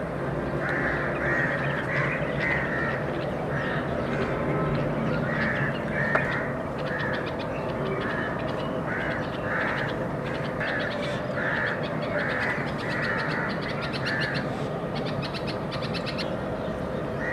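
Birds calling over and over in short, separate calls, with a fast rattle of clicks through the second half.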